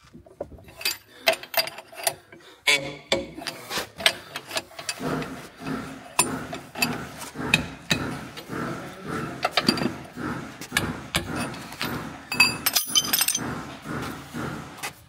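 Hand tools clinking and knocking on steel parts in quick, irregular strikes, with a brief denser run of high metallic clicks near the end.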